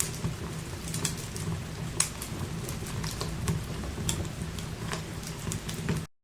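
Wood fire crackling in a fireplace: irregular sharp pops and snaps over a low, steady rumble. It cuts off suddenly near the end.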